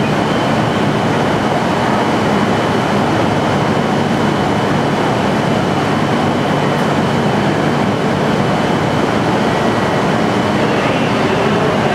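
E3 series Shinkansen train standing at a station platform, giving a steady, even hum and hiss from its running equipment, mixed with station ambience. A faint high steady tone runs through the noise and stops near the end.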